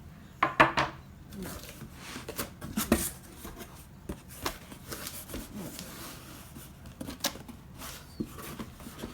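A cardboard box being opened by hand: scattered knocks, clicks and rustling of cardboard, with the sharpest knocks about half a second in.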